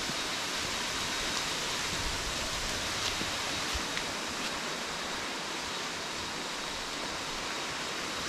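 Small jungle waterfall rushing steadily, an even hiss of falling water.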